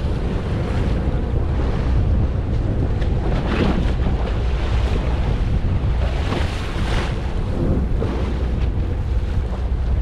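Wind buffeting the microphone aboard a boat at sea, over a steady low rumble of the boat and the water, with two louder surges about a third and two-thirds of the way through.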